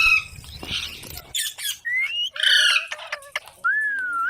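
Pet parrot squawking harshly several times. About two seconds in comes a short rising whistle, and near the end a longer whistle that dips and then rises sharply as it stops.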